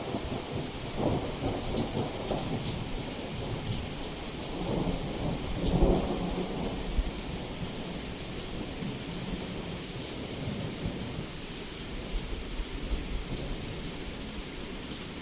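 Heavy rain pouring steadily as a constant hiss, with rolling thunder: crackling rumbles in the first few seconds and a louder rumble that peaks about six seconds in.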